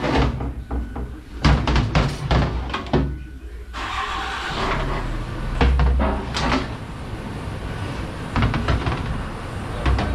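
Repeated knocks and clanks of metal transmission parts being handled and set down during teardown of a Ford AOD automatic transmission. From about four seconds in, a steady noisy hiss runs under them.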